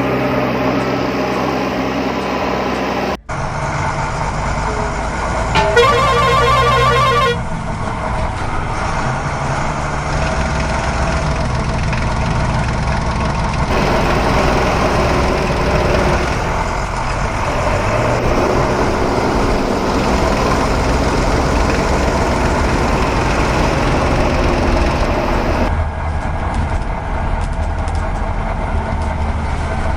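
Steady engine-like vehicle running sound with a sudden break about three seconds in, and a short pulsing horn sounding briefly about six seconds in.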